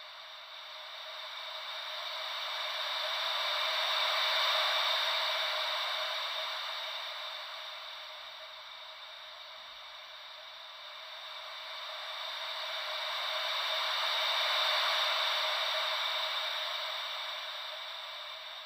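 Ocean-wave white noise: a steady hiss with no low rumble that slowly swells and fades like breaking waves, twice, about ten seconds per swell.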